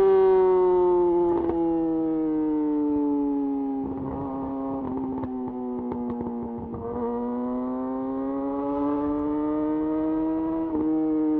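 Yamaha YZF R6's inline-four engine through a de-catted Akrapovic slip-on exhaust, running at high revs while riding. The revs sink slowly, with a spatter of crackles as the throttle is eased off. About seven seconds in they climb again, with a brief step near the end.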